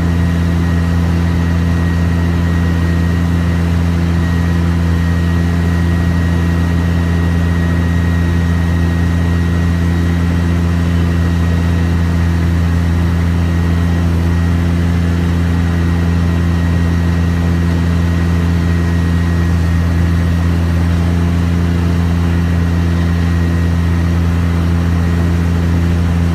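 An engine idling, a constant low hum at an unchanging speed.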